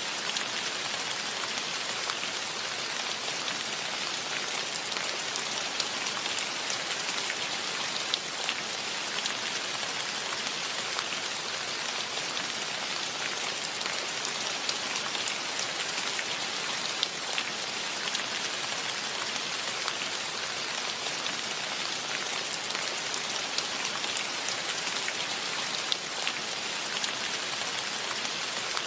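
Steady rain: an even hiss of falling rain with individual drops ticking here and there.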